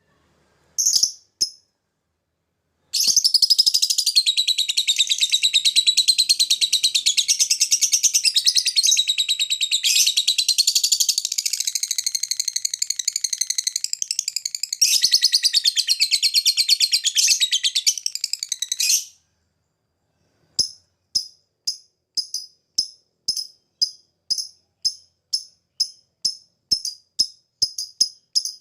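Lovebird giving one short call, then a long unbroken rapid chattering trill lasting about sixteen seconds, the long 'ngekek'. After a short pause it switches to a run of short sharp ticking chirps, about two a second, the 'ngetik'.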